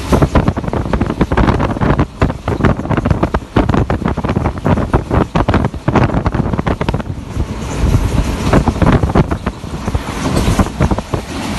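Passenger train running: a loud, continuous rumble and rattle with irregular buffeting of wind on the microphone.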